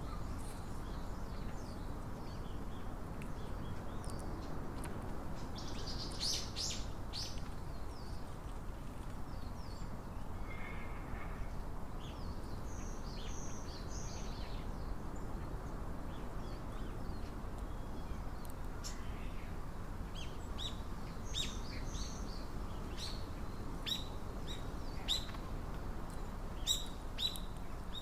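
Small songbirds chirping and calling in short, high notes, scattered at first and coming thick and fast in the last third, over a steady low background noise.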